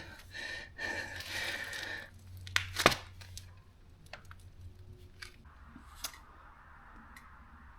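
Faint scraping and rustling for about two seconds, then scattered light clicks of tools and parts being handled, with one sharp click about three seconds in.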